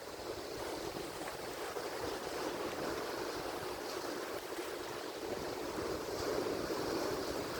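Atlantic Ocean surf: a steady wash of breaking waves and foam, swelling slightly about six seconds in.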